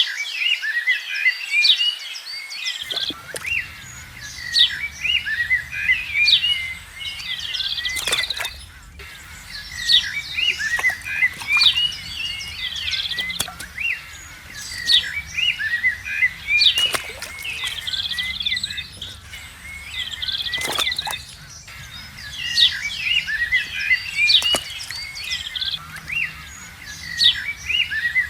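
Many small birds chirping and trilling. A low steady rumble comes in about three seconds in and continues underneath.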